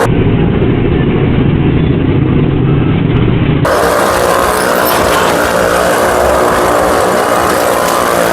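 Loud, steady engine noise from motorcycles and cars riding round the wall of a well-of-death pit. The sound turns abruptly brighter about three and a half seconds in.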